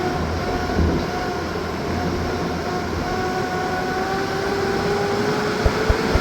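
A motor vehicle's engine running steadily under a noisy rumble, its pitch rising slowly in the second half, with a few low knocks near the end.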